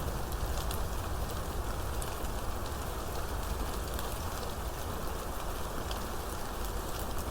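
Steady rainstorm: rain falling on surfaces, with scattered individual drops ticking and a low rumble beneath.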